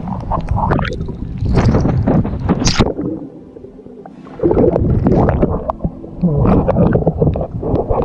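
Water gurgling and sloshing against the microphone of a waterproof action camera in the water, muffled and uneven, with a quieter stretch about three to four seconds in.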